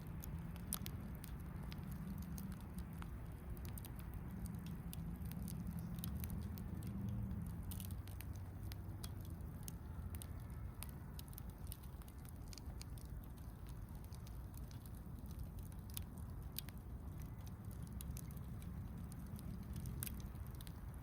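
Wood campfire crackling: irregular sharp pops and snaps scattered through, over a low steady rush of the burning fire.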